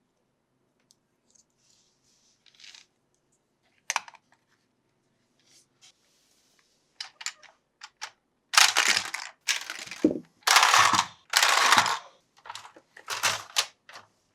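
Toy packaging being handled and opened by hand. Scattered light clicks and taps come first, then, past the middle, several loud rustling, tearing bursts about half a second to a second long, then a few more clicks.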